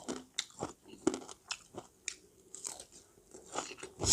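Close-miked eating: crunchy chewing and biting, heard as a string of short, irregular clicks and wet smacks, with a sharper, louder one near the end.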